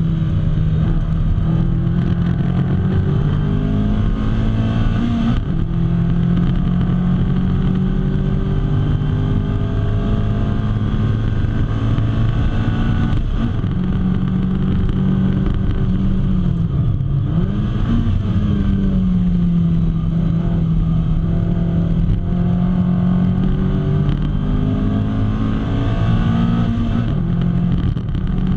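Lotus Elise's four-cylinder engine at racing speed, heard from inside the cockpit. The revs climb steadily through each gear and drop at the gear changes, about five seconds in and again near the end. Just past halfway there is a quick dip and rise in revs as the car slows for a corner.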